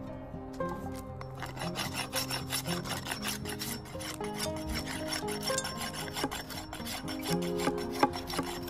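Rapid, continuous scraping and rubbing, with background music playing underneath.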